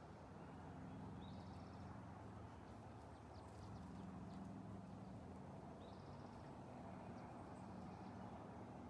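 Quiet outdoor ambience: a faint, steady low hum, with two short high chirps from a small bird, about a second in and again about six seconds in.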